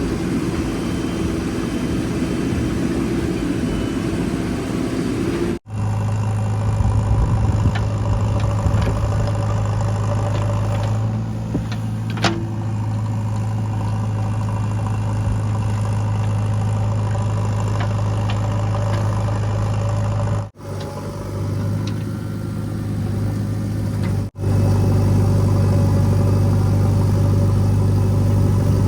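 Diesel engines of a backhoe loader and tractors running steadily, in several clips cut together, so the engine sound changes abruptly at each cut. A brief high-pitched sound comes about twelve seconds in.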